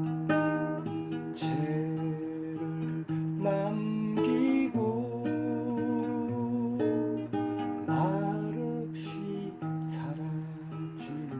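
Acoustic guitar music: strummed chords under a held, sliding melody line.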